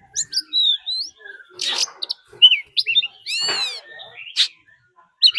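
Oriental magpie-robin singing in challenge: a quick, varied run of clear whistled notes and slurs, with a harsh rasping call about three and a half seconds in.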